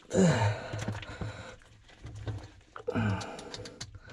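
A man's two strained grunts of effort, each falling in pitch, about three seconds apart, while he works a clamp band off a sewer ejector pump's float switch. Small clicks and knocks of handling fall in between.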